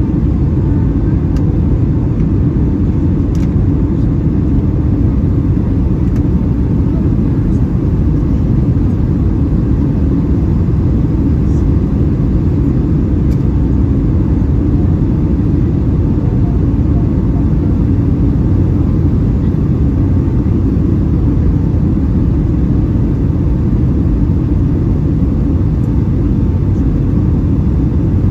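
Steady cabin noise inside a Boeing 757-300 airliner in flight: an even, loud low rumble of engines and airflow, with a faint steady tone above it.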